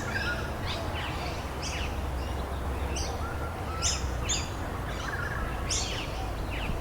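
Several birds chirping, with short, quick, high calls that sweep downward and come in a steady scatter, over a continuous background hiss and low rumble.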